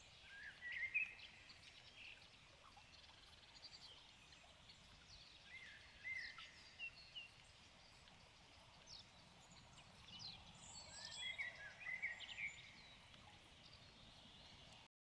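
Wild songbirds chirping and singing in short phrases over a faint steady hiss, busiest near the start, in the middle and toward the end; the whole sound cuts off abruptly just before the end.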